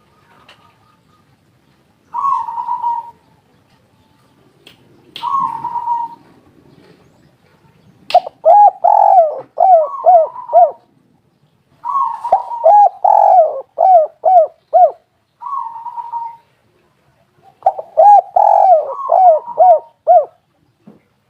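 Spotted doves cooing. A few short single coos are followed by three runs of quick, rising-and-falling coo notes at about four or five a second.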